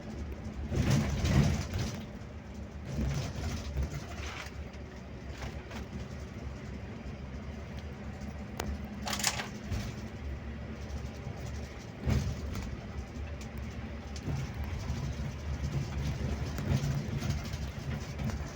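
Scania K360IB coach's diesel engine running on the road, a steady low drone that swells louder now and then. A brief hiss comes about nine seconds in.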